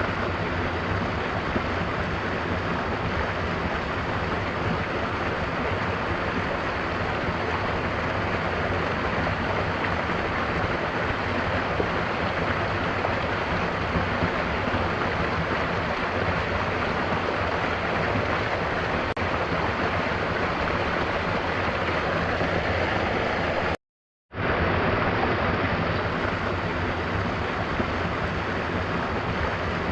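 Mountain waterfall: a steady, even rush of falling water. About 24 s in it cuts out completely for about half a second, then starts again as before.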